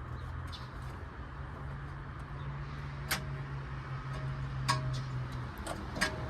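Metal hand tools clinking against car parts during under-hood repair work: three sharp clinks with a short metallic ring, over a steady low hum that stops about five and a half seconds in.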